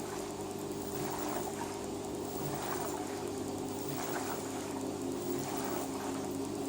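LG WT-R852 direct-drive washing machine running with a load of bedding: a steady motor hum under water sloshing that swells and fades every second or so as the drum turns.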